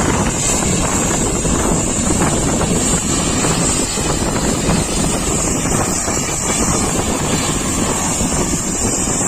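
High-pressure water spray running steadily, with a constant high hiss.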